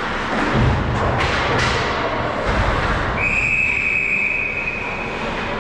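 A referee's whistle blown in one long, steady blast starting about halfway through, over rink noise with low thuds in the first half.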